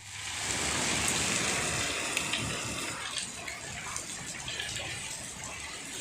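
Rain falling hard, with water splashing and pouring and scattered drops pattering. It is a little louder for the first couple of seconds, then steady.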